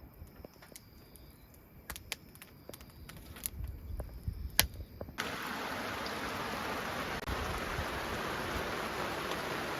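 Scattered light clicks and knocks, then about five seconds in a steady hiss of heavy rain starts abruptly and keeps going.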